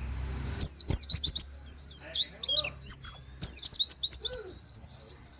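Pleci (white-eye) singing a fast, continuous string of high, sharply falling chirps and short whistled 'wit wit' notes in a canary-like style. The song starts just under a second in, after a brief soft rustle.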